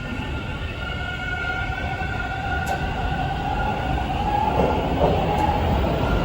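TTC T1 Bombardier subway train running, with a low rumble and a steady electric whine from the propulsion that rises slightly in pitch and grows louder.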